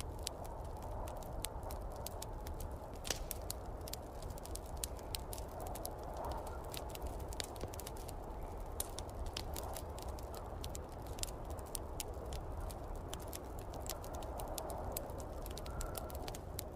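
Wood fire crackling in a fireplace, with frequent irregular sharp pops and snaps, over a steady low rush of snowstorm wind.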